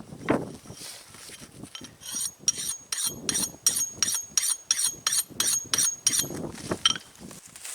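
A metal blade rasping in quick, even strokes, about four a second, with a thin metallic ring on each stroke.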